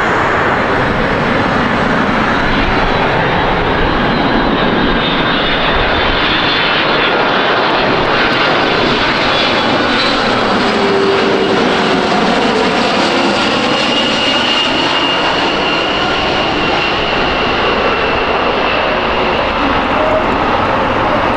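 Jet airliner passing close by, its engines making a loud, steady roar. Whining engine tones drop in pitch about halfway through as it goes past.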